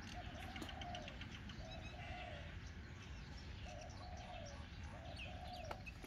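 Birds calling: a low call repeated about four times, each lasting under a second, with fainter short chirps from other birds behind it.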